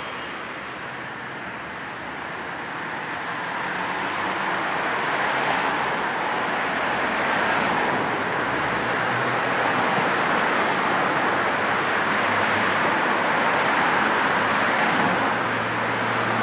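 Road traffic going past: a continuous wash of tyre and engine noise that swells over the first few seconds as vehicles come closer, then holds steady.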